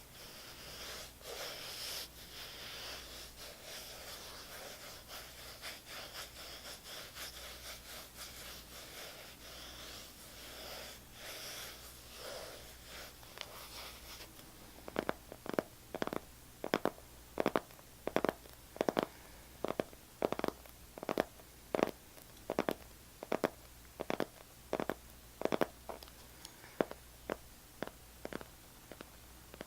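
Scratching on an object for about the first half, then switching to steady tapping at about two taps a second.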